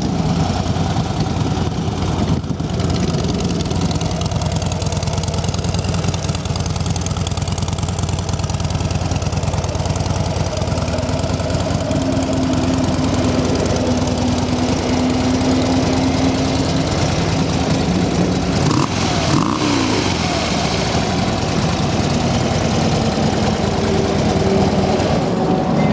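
2013 Harley-Davidson Dyna Wide Glide's 103 cubic-inch Twin Cam V-twin idling steadily through its stock factory exhaust, pretty quiet for a Harley.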